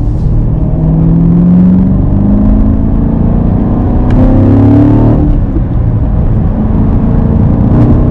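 Corvette C7's 6.2-litre V8 through its NPP performance exhaust, pulling under steady acceleration with its pitch slowly rising. It drops once about five seconds in at a gear change, then starts climbing again.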